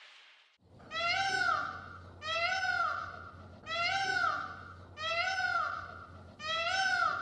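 Cat meowing five times in a row, about one and a half seconds apart, each meow rising then falling in pitch and all nearly alike.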